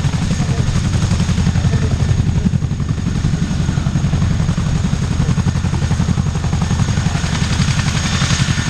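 RAF Chinook's tandem rotors beating in a rapid, steady throb (blade slap), with a thin high whine above it.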